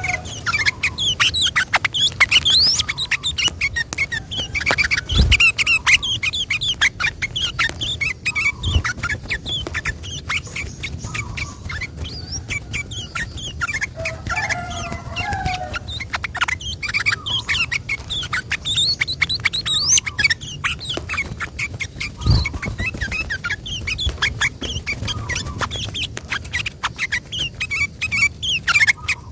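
Yellow-vented bulbul (trucukan) singing a long run of rapid, chattering, bubbling phrases without a break, with a few short low thumps.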